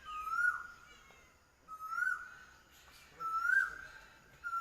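A bird calling over and over: a short whistled note that rises and then drops off sharply, repeated about every second and a half.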